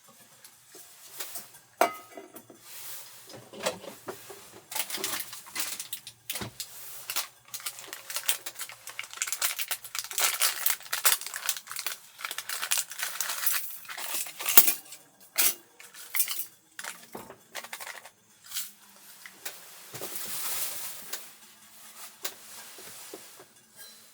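Dishes and utensils being handled: a long string of small clinks, knocks and rustles, busiest in the middle.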